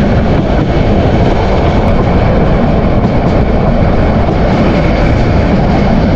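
Passenger train running at speed, heard from on board: a steady, loud rumble of the wheels on the track.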